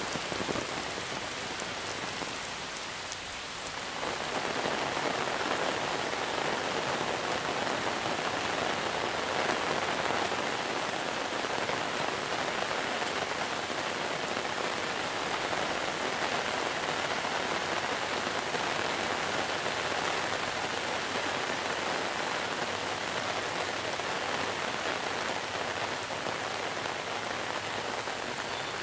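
Heavy monsoon rain falling steadily, a dense even hiss of drops that grows a little louder about four seconds in.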